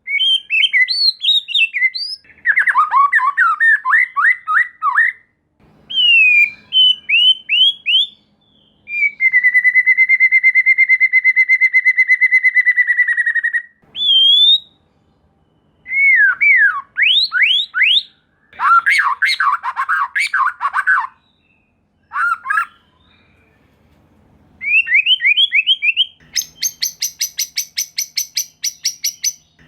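White-rumped shama (murai batu) singing loudly in a string of varied phrases with short pauses between them: clear whistled slurs, quick runs of down-slurred notes, and a level rapid trill held for about four seconds. Near the end comes a fast, harsh rattling phrase. This is the song used as a lure to provoke other shamas into singing.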